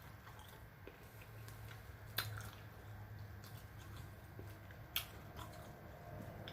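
Faint mouth sounds of a person chewing food close to the microphone, with two short sharp clicks, one about two seconds in and one near five seconds.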